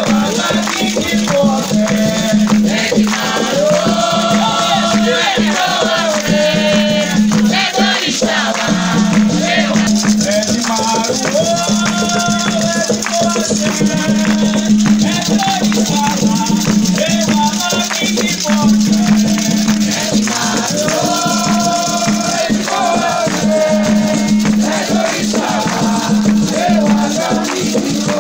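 Candomblé chant to the orixás sung by voices over continuously shaken rattles, with a steady low hum underneath.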